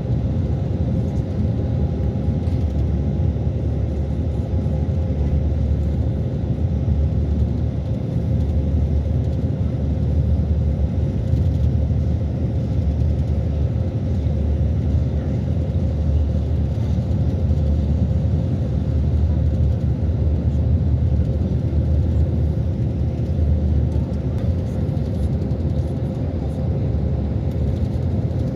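Steady low rumble running without a break, with a faint steady hum above it.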